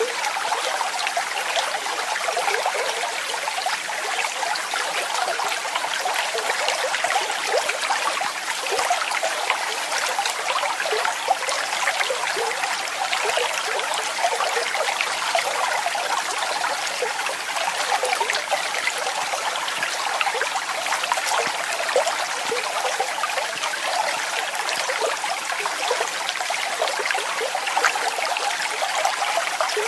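Falling water splashing and trickling steadily, a waterfall or cascade.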